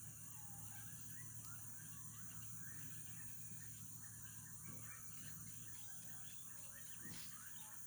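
Faint morning chorus of many birds: dense, overlapping short chirps and calls that keep going, over a steady high hiss.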